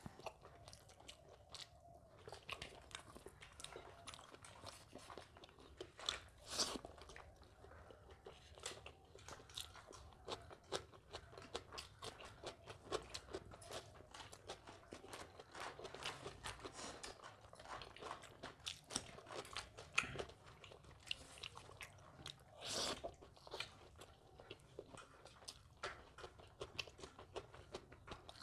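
A person chewing and biting crunchy food, with many small irregular crunches and mouth clicks and two louder crunches, one about six seconds in and one near the end.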